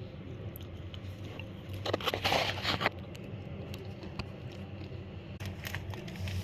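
Popcorn crackling: scattered sharp clicks, with one dense, louder burst of crackling about two seconds in that lasts about a second.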